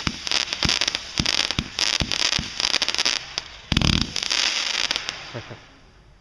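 Aerial fireworks going off in rapid succession: many sharp reports and crackling, with a heavier boom about four seconds in. The barrage then dies away near the end.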